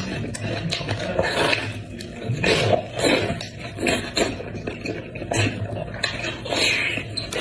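Close-miked eating sounds: irregular wet chewing and smacking on beef trotter.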